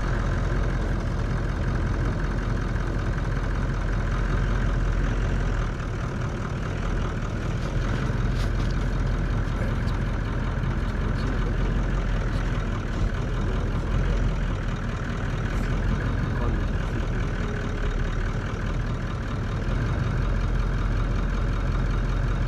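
A motor vehicle's engine running steadily, with a deep rumble and no break in the sound.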